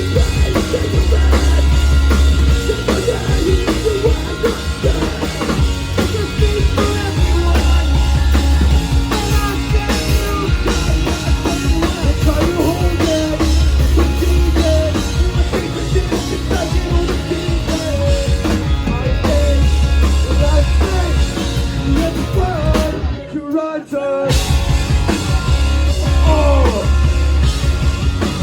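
Live rock band playing loudly, drums and bass keeping a steady beat with melody lines over it. About 23 seconds in, the band stops dead for about a second, then comes back in.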